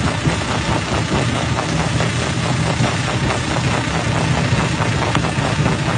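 Stone crusher (jaw crusher) running steadily under load, a continuous low machine drone with a dense rattle and crunch of rock.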